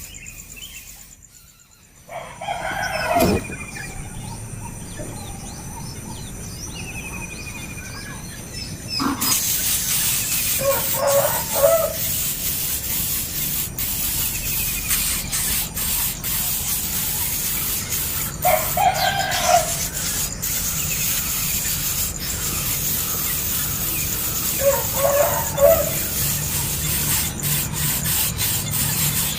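A bird calling loudly four times, each call lasting about a second and spaced several seconds apart. Fainter chirps and a steady hiss lie under the calls from about a third of the way in.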